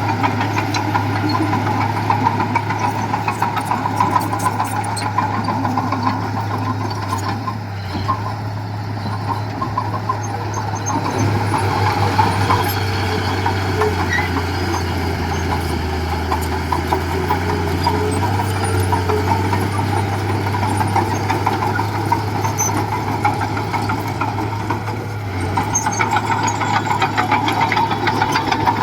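Diesel engine of heavy earthmoving equipment running steadily, its low hum sagging in pitch for a few seconds about midway.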